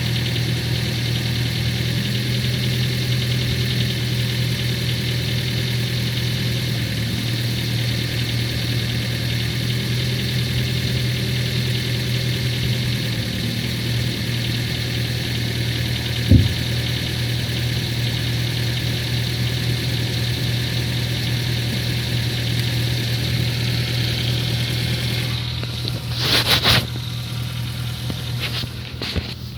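Ford Focus 3 engine idling steadily with a distinct tapping knock that sounds like a diesel cold start. The knock appeared after an engine oil change and its cause is unknown. A brief thump comes about halfway through, and a short rushing noise comes near the end.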